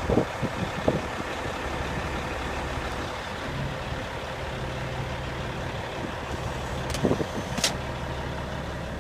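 Heavy diesel truck engine (Cat 3406E) idling steadily with the dump box raised, a low hum that becomes steadier about three and a half seconds in. A few sharp clicks or knocks in the first second and again around seven seconds.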